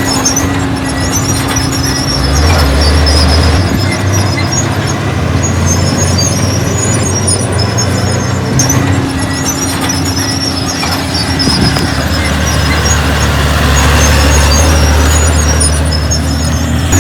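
Crawler bulldozer working: its diesel engine runs heavily, pulling harder about 2 s in and again near 12 s, while the steel tracks give repeated high-pitched squeals.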